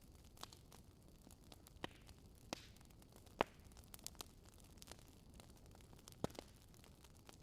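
Wood fire burning in a fireplace, crackling: irregular sharp pops over a faint steady hiss, the loudest pop about three and a half seconds in.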